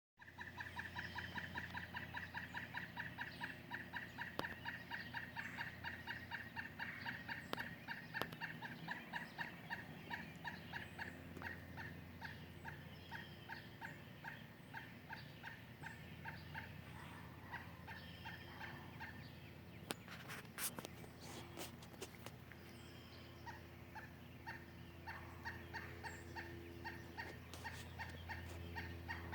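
Woodpecker giving a rapid, steady series of alarm calls, several notes a second, sounding a warning at a cat. A steady low hum runs underneath.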